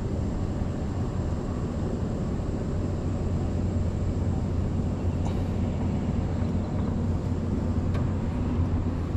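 An engine running steadily at a constant low drone, with a couple of faint ticks.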